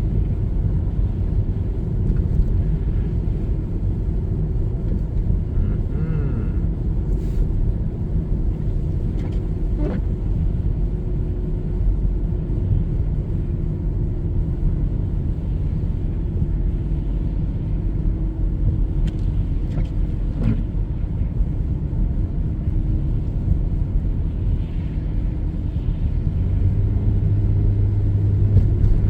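Steady low rumble of a car driving on the road, engine and tyre noise, with a deeper hum coming in near the end.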